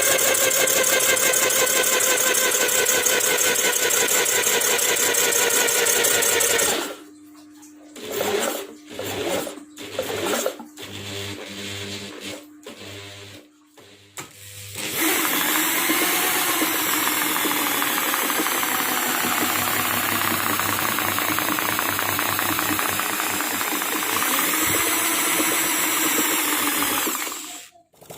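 Custom three-cylinder engine built from a Suzuki Satria FU motorcycle engine, running at high revs. Its sound breaks up into short choppy bursts with gaps for several seconds in the middle, then it runs steadily again with slow rises and falls in revs.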